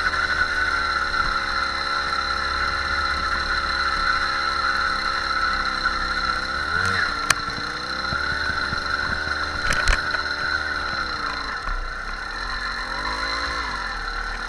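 Small motorbike engine running, its pitch dipping and rising a few times as the revs change. Two sharp clicks come about 7 and 10 seconds in.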